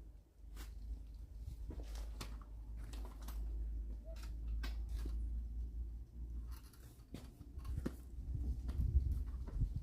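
Scattered light clicks and taps of small handling work over a steady low rumble, the clicks coming thicker near the end.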